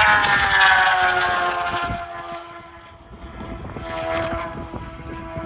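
A racing superbike flying past at full speed, its engine note falling in pitch as it goes by and fades away. Another bike's engine comes up again near the end.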